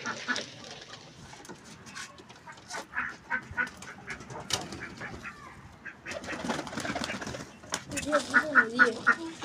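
Domestic birds calling, with ducks quacking, among scattered sharp taps and clicks; near the end comes a quick run of quacks.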